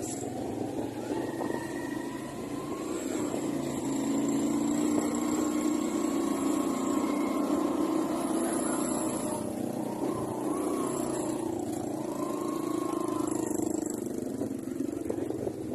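Motorcycle engine of a tricycle running steadily while riding along the road, its pitch wavering a little and getting louder about four seconds in.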